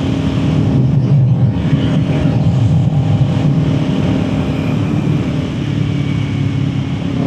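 Kawasaki Ninja 400's parallel-twin engine cruising steadily at gentle, moderate revs.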